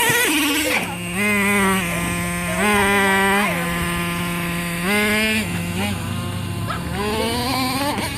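Traxxas nitro R/C truck's small two-stroke glow engine running at high revs, its pitch jumping up in short throttle blips about four times and climbing steadily near the end.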